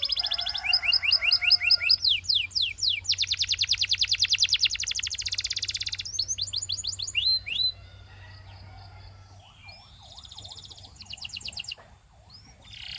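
Canary singing: fast trills of rapidly repeated rising notes, loud for the first seven seconds or so, then softer, with a lower rolling phrase about ten seconds in.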